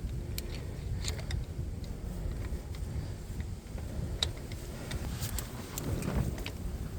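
Scattered sharp clicks and light knocks over a low, steady rumble.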